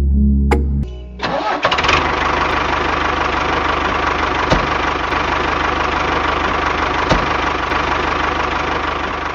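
A small engine starts up about a second in and then runs steadily, with a fast, even pulse.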